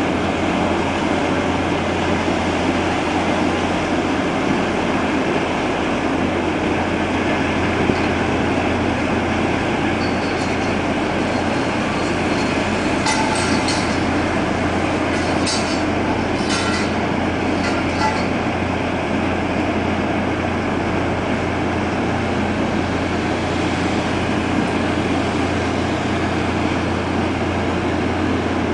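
Ship's engines and machinery running with a steady low rumble and hum as the ship gets under way from port. A few short, sharp high ticks come about halfway through.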